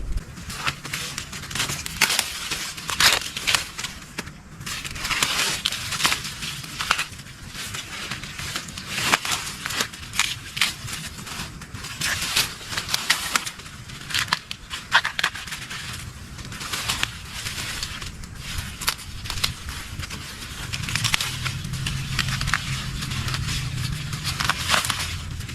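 Irregular crisp rustling and crackling, like dry leaves and stalks being handled during harvesting.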